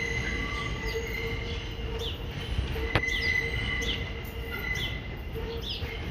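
Small birds chirping over and over, short high chirps that slide down in pitch, over a steady low rumble with faint whining tones that come and go. A single sharp click about three seconds in.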